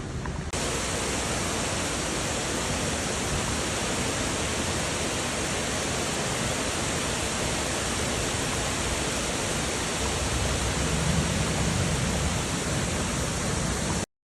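Steady rushing water, an even hiss that starts abruptly about half a second in and cuts off suddenly near the end.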